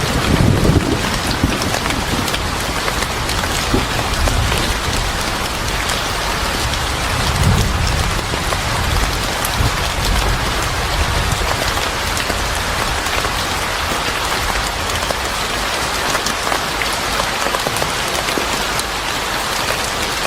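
Steady heavy rain falling on a surface, with a low roll of thunder dying away in the first second and another soft rumble around eight seconds in.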